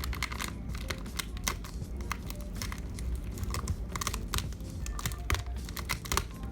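Fingers working open a sealed LEGO booster pack box: a dense run of irregular sharp clicks and taps on cardboard, with some crinkling and tearing.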